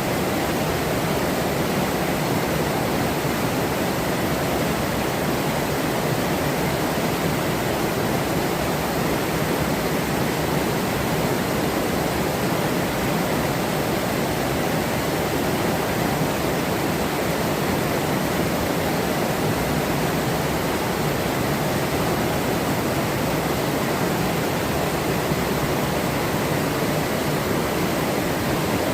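Forest river running: a steady, unbroken rush of flowing water.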